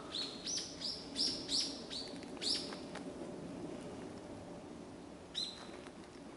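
A small wild bird calling: a quick run of about six short, high chirps over the first three seconds, then one more about five seconds in.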